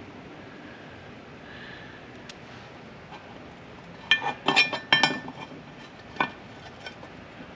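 Metal shift tower parts clinking against each other as they are handled and fitted: a quick cluster of sharp, ringing clinks about four seconds in, then one more a second later.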